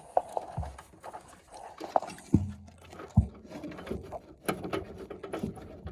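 Hand-tool handling noise as a screw is worked in with a stubby screwdriver in a tight spot: scattered small metallic clicks and taps, with three dull knocks in the first half.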